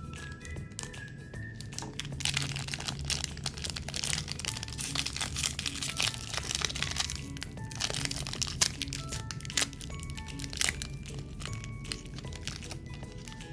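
Crinkling and crackling of plastic snack wrappers being handled and unwrapped, densest through the middle of the stretch, over light background music.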